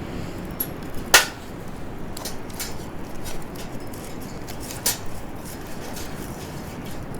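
Wood campfire crackling: a steady low rush of flame with scattered sharp pops, the loudest about a second in and another near five seconds.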